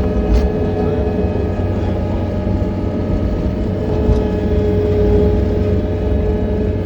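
John Deere 317 skid steer running steadily: a deep engine rumble with a steady whine above it that grows a little stronger past the middle.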